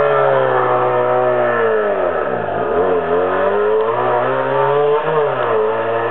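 Racing car engine running hard under throttle, its pitch dropping sharply and climbing back about two and a half seconds in, with a smaller dip and recovery near five seconds.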